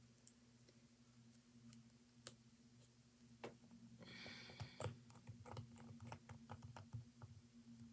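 Near silence with faint scattered clicks and taps of small objects being handled, coming in a quicker run in the second half, over a faint steady hum.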